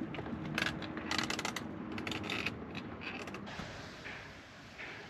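Heavily loaded touring bicycle being wheeled by hand, with runs of rapid clicking and creaking from its freewheel and frame that fade out about three and a half seconds in.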